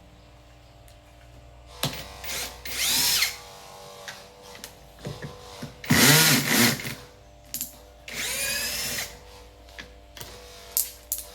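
A small power drill-driver running in short bursts, its whine rising as it spins up and falling as it stops, with a louder burst about halfway through and light clicks and knocks between runs.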